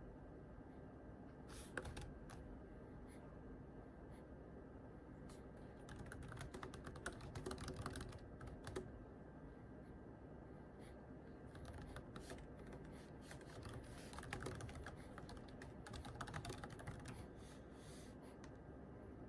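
Computer keyboard typing: quiet key clicks in short flurries with pauses between, over a faint steady background hum.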